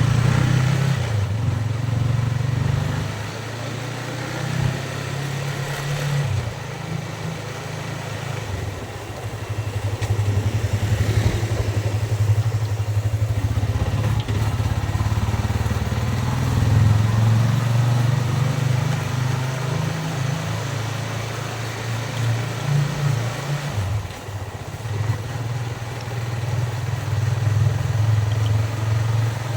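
Yamaha Vixion's single-cylinder four-stroke engine running while riding, its pitch rising and falling with the throttle and dropping briefly three times as the rider eases off, with wind noise over the microphone.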